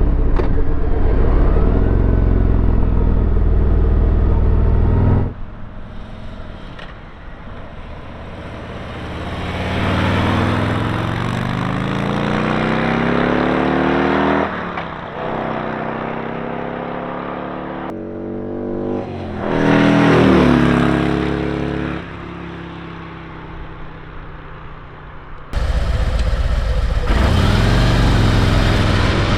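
Harley-Davidson Road Glide's Milwaukee-Eight V-twin accelerating past, its pitch rising through the gears with a brief dip at a shift, loudest about two-thirds through, then fading. A steady loud low rumble opens and closes the stretch, each segment starting or stopping abruptly.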